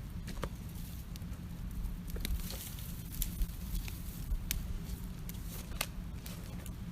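Wood campfire crackling: scattered sharp pops and snaps over a low, steady rumble.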